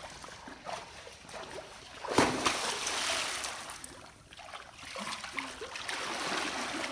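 Swimmers splashing in well water, with one loud splash about two seconds in followed by a second or so of churning water.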